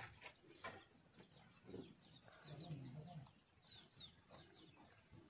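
Faint chirping of small birds, a quick run of short, high, falling notes about halfway through, over near-silent outdoor background.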